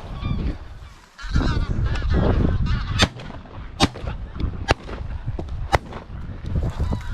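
A flock of geese honking repeatedly, with four sharp shotgun shots in quick succession through the middle, over a steady low rumble.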